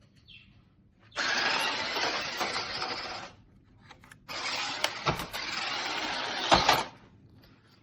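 Toy RC monster truck's small electric motor and tyres running in two short bursts of about two seconds each, with a pause between them.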